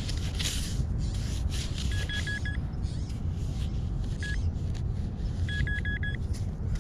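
Metal detector beeping on a buried target: a quick run of about five short beeps, a single beep, then another run of about five, over a steady low rumble.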